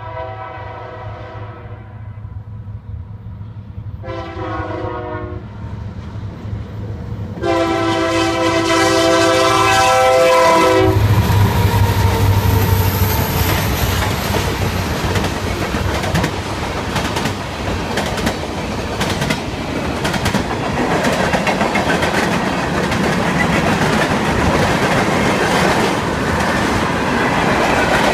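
Norfolk Southern freight train's locomotive horn sounding for a grade crossing: a blast that fades out in the first two seconds, a short blast about four seconds in, and a longer one from about seven and a half seconds. The horn cuts off as the locomotive passes about eleven seconds in with a loud low diesel rumble. The freight cars then roll by with steady wheel noise and clickety-clack over the rail joints.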